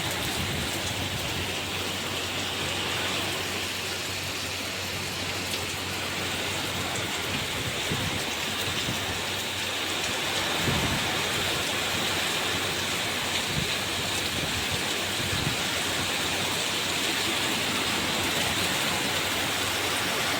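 Heavy rain falling steadily, an even dense hiss, with a few brief faint thuds in the middle.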